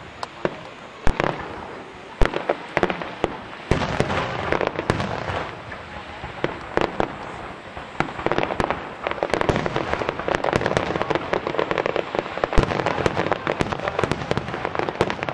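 Ultra-large starmine fireworks barrage: aerial shells bursting in quick succession, with sharp bangs over continuous crackling. The bursts grow denser and more continuous a little past halfway.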